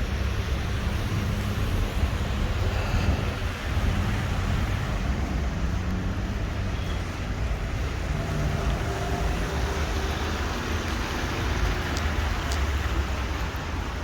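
Steady street traffic noise on a rainy day, an even wash with a constant low rumble.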